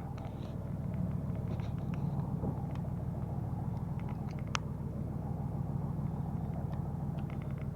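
Fishing boat's engine running steadily with a low, even drone as the boat moves to a new spot, with a few light clicks and ticks over it.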